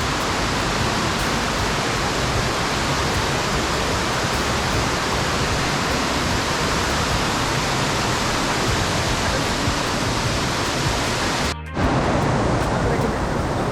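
Steady rush of falling water from a tall waterfall that comes down in two cascades. The sound breaks off for a split second about eleven and a half seconds in, then carries on.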